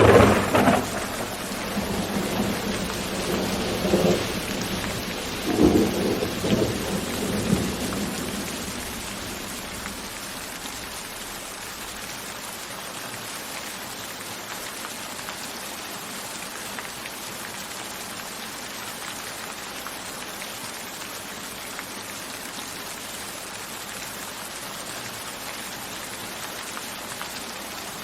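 Thunder rumbling over steady rain: the rumble swells at the start and again about four and six seconds in, then fades away by about eight seconds in, leaving only the even hiss of falling rain.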